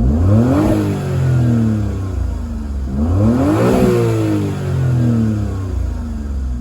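Suzuki Kei Works' K6A 660 cc turbocharged three-cylinder engine, breathing through a full aftermarket Kakimoto exhaust from the front pipe back, revved twice without load. Each time the revs climb quickly and then fall back slowly toward idle.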